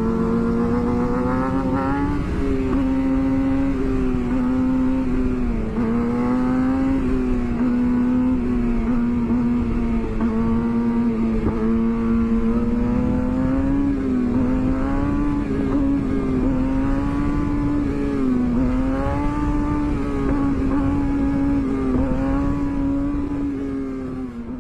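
Sport motorcycle engine running hard at high revs under sustained acceleration, its pitch wavering and dipping briefly every few seconds as the throttle eases and picks up again, over a steady low rush of wind noise.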